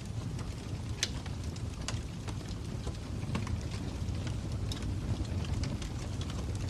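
Fire crackling: a steady low rumble with irregular sharp pops and snaps, the strongest about a second in.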